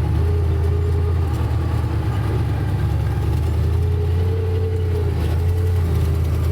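Engine and road noise of a vehicle driving steadily, heard from inside the cab: a constant low rumble with a faint wavering whine above it.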